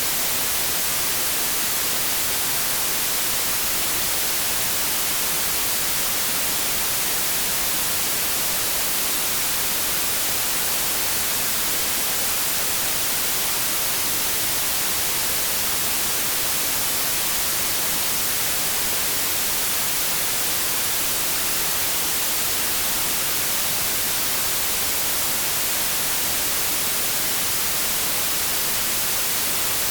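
Continuous white noise: a steady, even hiss, brightest in the highs, that never changes.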